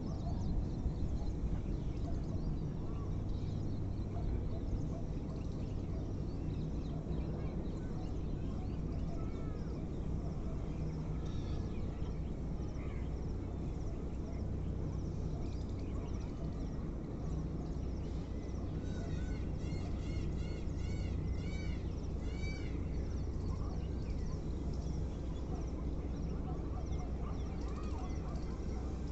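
Birds calling over a steady low rumble, with a quick series of repeated rising-and-falling calls from about 19 to 23 seconds in.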